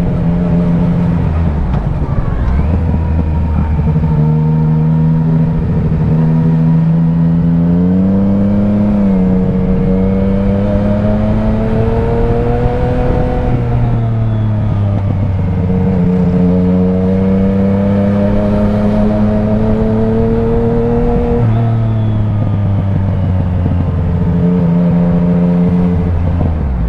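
Motorcycle engine running under way, its pitch rising and falling with throttle and gear changes, over a steady rumble of road and wind noise.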